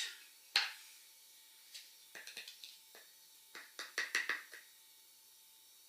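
Measuring spoon clicking and scraping against a supplement tub as pre-workout powder is scooped out: one sharp click, then two short runs of small taps.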